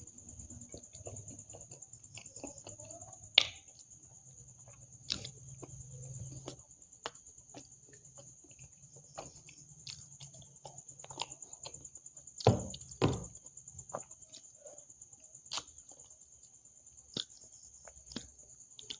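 Close-miked eating sounds: wet chewing and mouth clicks while eating kachori with curries. Scattered sharp clicks and a few louder knocks run through, the loudest a double knock about twelve and a half seconds in.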